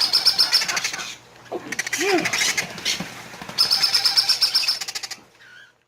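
Baby Quaker parrot chicks begging with rapid, pulsing high chirps in two bouts, stopping about five seconds in.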